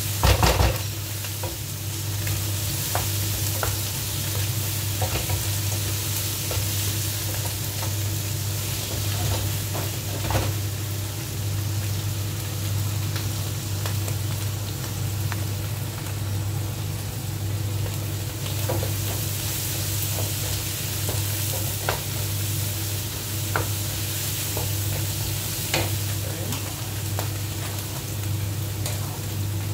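Chicken pieces sizzling steadily as they fry in a non-stick wok, with a wooden spatula now and then clicking and scraping against the pan, loudest about half a second in. A steady low hum runs underneath.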